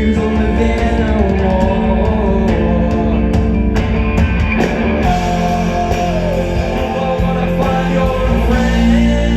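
Live rock band playing loud, with electric guitars holding sustained chords over heavy bass and drum hits.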